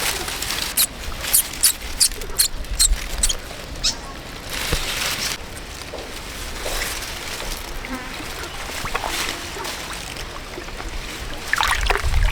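Water splashing: a string of short, sharp splashes over the first few seconds, then a brief pour of water, with quieter trickling and dribbling after.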